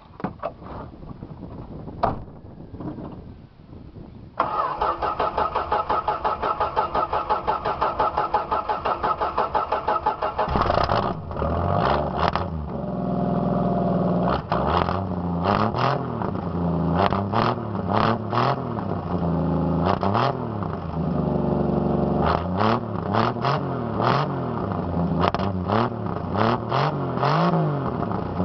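Straight-piped 1973 Dodge Dart engine: after a few clicks, it cranks on the starter for several seconds and catches about ten seconds in. It is then revved up and down in repeated blips before settling to a steady idle near the end.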